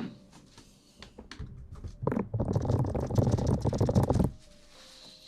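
Fingers rubbing and scratching right on the microphone in an ASMR hair-washing-style scrub. It is loud for about two seconds from around two seconds in, with fainter taps and rustles before and after.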